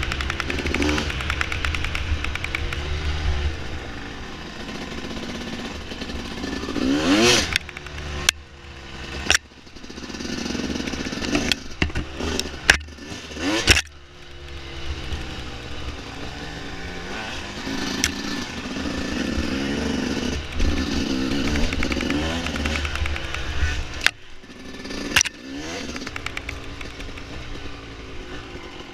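Dirt bike engine running under changing throttle, its pitch climbing and falling as it revs up and backs off, with a sharp rise in revs about seven seconds in. Several sharp knocks and clatter come through the engine sound.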